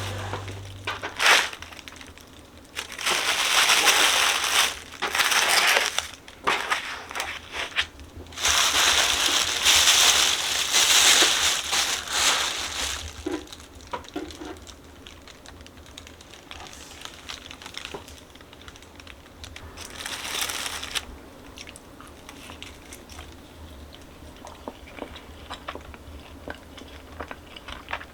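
Packaging crinkling in several bursts as it is handled and opened, the longest about four seconds, with quieter rustles and clicks between.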